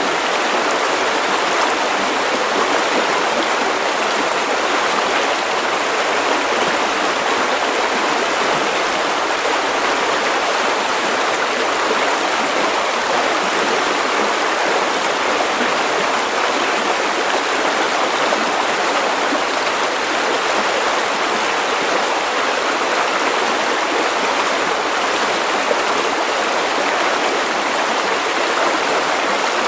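River water running over stones, a steady, even rush with no pauses or changes.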